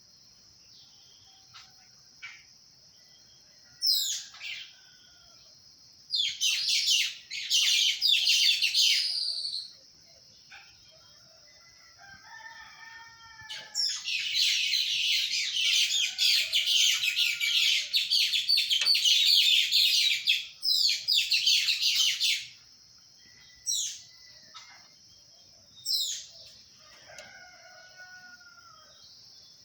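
Birds chirping and chattering in loud, rapid bursts: one about six seconds in lasting some three seconds, a longer one of about eight seconds mid-way, with short single chirps between, over a steady high whine. A rooster crows faintly in the background.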